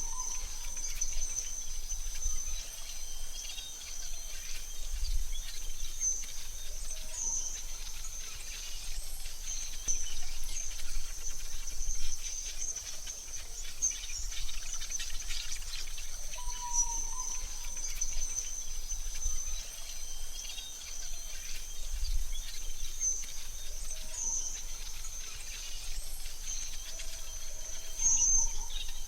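Forest ambience: a continuous high-pitched insect trill, with a few short bird chirps now and then over a faint low rumble.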